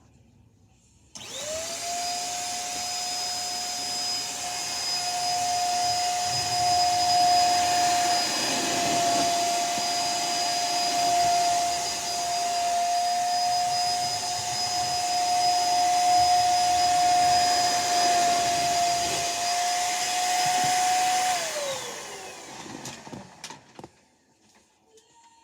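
Vacuum cleaner switched on, its motor whine rising quickly to a steady high pitch over a rush of air, running for about twenty seconds, then switched off and winding down with a falling whine.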